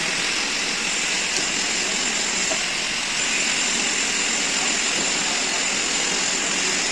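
Steady machine running noise with a thin, steady high whine over it.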